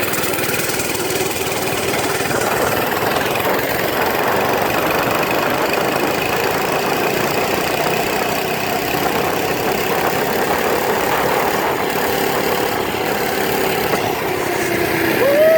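Monster Moto mini bike's small engine running steadily while it is ridden, its pitch holding fairly even.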